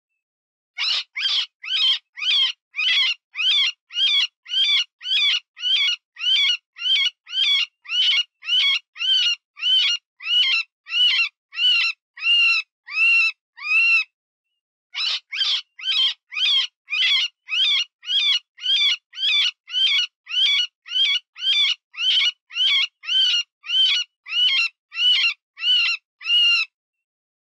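Cottontail rabbit distress call, the wounded-rabbit squeal used to lure predators: high, wavering cries repeated about twice a second, with a brief pause about halfway through.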